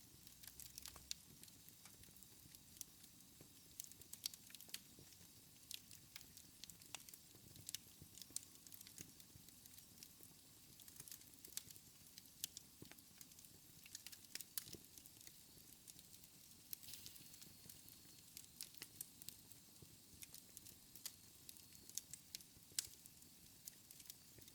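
Wood fire in a fireplace crackling: irregular sharp pops and snaps over a faint low hiss.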